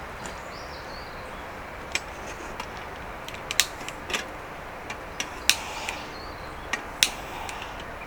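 Wood campfire crackling, with sharp, irregularly spaced pops over a steady background hiss.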